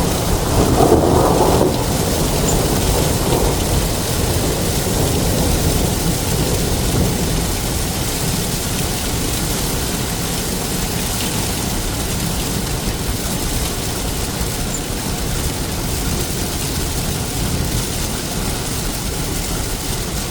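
Heavy rain on a moving vehicle, a steady wash of rain and road noise heard from inside the cab, a little louder in the first couple of seconds.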